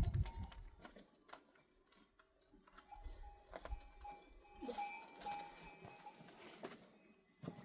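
Faint metal livestock bells clinking and ringing on and off, with scattered light knocks.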